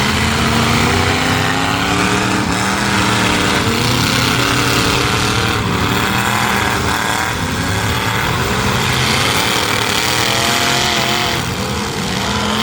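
Several demolition-derby truck engines running and revving at once, their pitches rising and falling.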